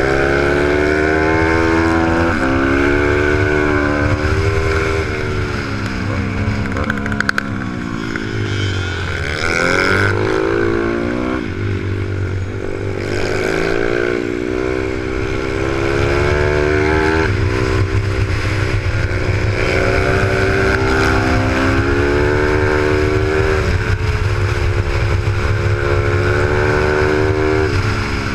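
Pit bike's 155cc single-cylinder engine heard from onboard, its pitch climbing and falling over and over as it accelerates and slows through corners, with wind on the microphone.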